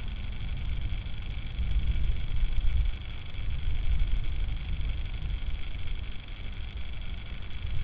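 Wind buffeting an outdoor camera microphone: a low, uneven rumble that swells and dips, over steady hiss.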